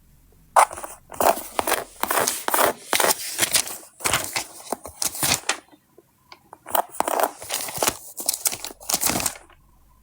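Sticker sheets being handled and peeled, rustling in two long runs with a short pause between.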